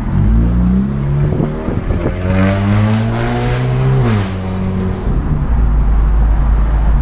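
Honda Civic four-cylinder engine with its muffler deleted, revving loudly through the open exhaust: a short rev about half a second in, then a longer rev held from about two seconds that drops back at about four seconds to a low, steady rumble.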